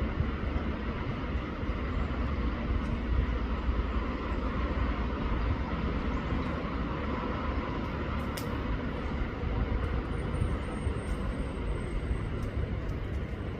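Steady outdoor background rumble and hiss, heaviest in the deep low end, with a faint high whistle about ten seconds in.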